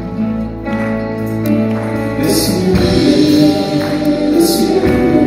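Contemporary Christian worship music: a band holding sustained chords under singing, with cymbal crashes about halfway through and again near the end.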